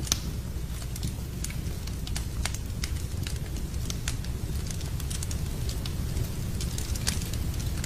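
Wood fire crackling in a fireplace, with many irregular sharp pops and snaps, over a steady low rumble of rain.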